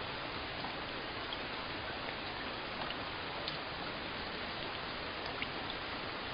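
Steady rainfall: an even hiss of rain with a few faint, separate drop ticks scattered through it.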